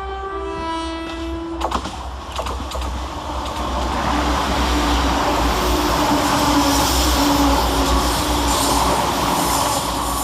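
Class 172 Turbostar diesel multiple unit sounding a two-tone horn, a short high note then a longer lower one, then running fast through the station. The noise of the passing train grows louder from about four seconds in and stays loud.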